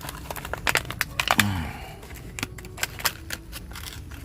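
Scattered clicks and clinks of hand tools and small metal parts being handled while a clip is repaired, with a brief low sound that falls in pitch about a second and a half in.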